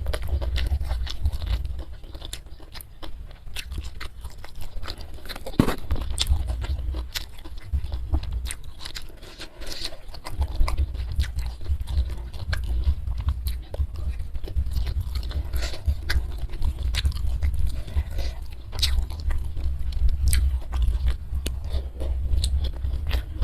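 Close-miked chewing and biting, with many irregular sharp crunches: a person eating a meal of rice, fish and vegetables.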